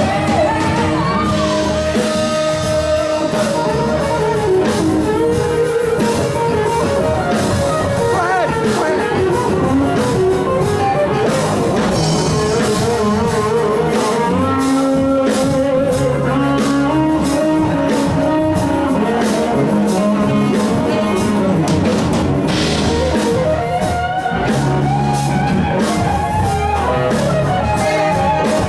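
Live blues-rock band playing: drum kit, bass and electric guitar, with a wavering lead melody line over them.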